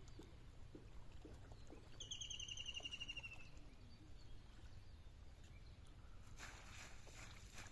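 A bird trilling: a quick run of repeated notes, falling slightly in pitch, lasting about a second and a half. A brief noisy rush follows near the end over a low background rumble.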